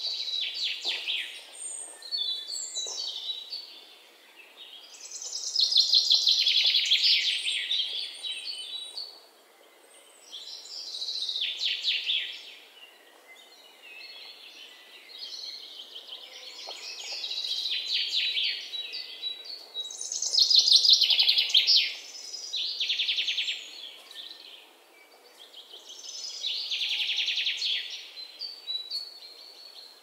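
Small birds singing: phrases of high chirps and buzzy trills, each a second or few long, come one after another with short quieter gaps between them.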